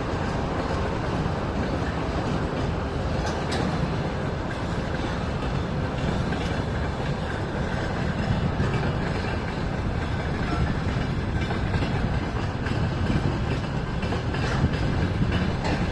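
Train running on the rails: a steady rumble with occasional faint clicks of wheels over rail joints.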